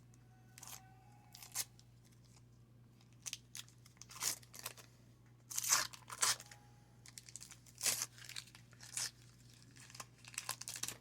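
Waxed-paper wrapper of a 1990 Donruss wax pack being torn open and crinkled, in irregular rustling, crackling bursts that are loudest about six and eight seconds in.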